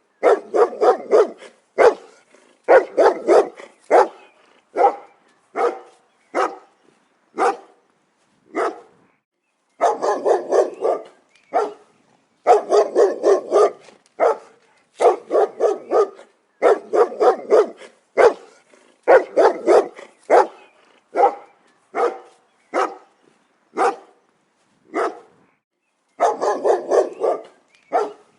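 A dog barking: rapid volleys of short, sharp barks alternate with single barks spaced about a second apart. The silence between barks is dead, as in an edited sound-effect recording.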